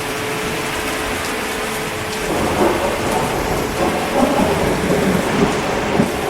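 Steady rain falling, with thunder rumbling in about two seconds in and carrying on, louder and uneven.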